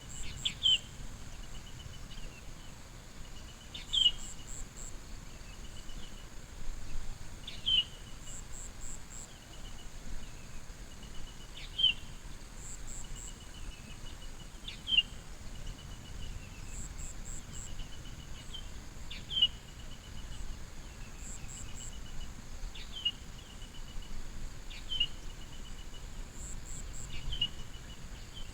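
A bird calling over and over, about every four seconds: a sharp high note followed by a short rapid trill. Under it runs a steady high-pitched insect drone with groups of faint chirps.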